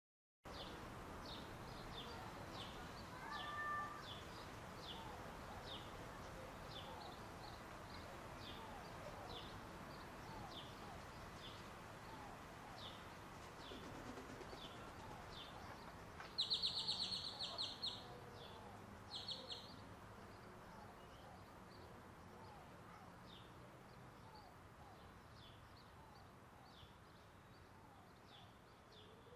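Small birds chirping over a faint steady background noise: short high chirps repeat throughout, with a two-note whistle a few seconds in and a buzzy trill about halfway through that is the loudest sound.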